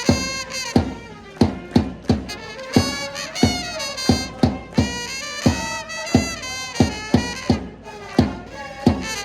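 Japanese baseball cheering-section trumpets playing a player's cheer song over a steady bass-drum beat, about two to three strokes a second.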